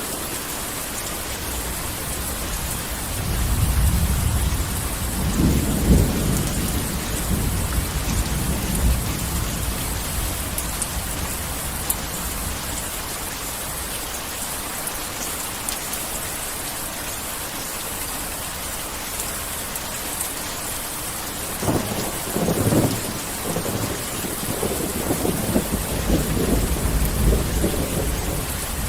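Heavy rain falling steadily, with rolls of thunder rumbling low: one from a few seconds in to about nine seconds, another starting a little past twenty seconds and running on to the end.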